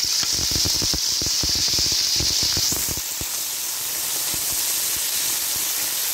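Raw diced chicken sizzling in hot oil in a pan: a loud, steady hiss that eases a little about three seconds in. Scattered knocks and scrapes come from a spatula stirring the pieces over the first few seconds.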